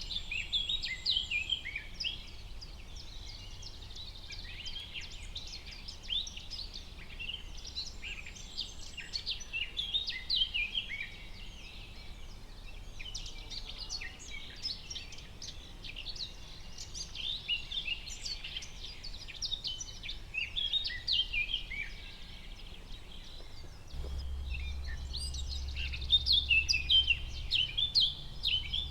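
Forest ambience of many songbirds chirping and trilling at once, a dense chorus of short high calls. A low steady rumble sits underneath and grows louder near the end.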